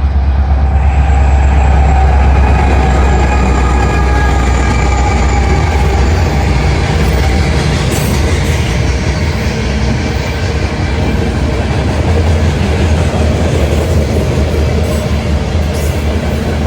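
A train passing close by: steady rumble of the train with wheels clicking over rail joints.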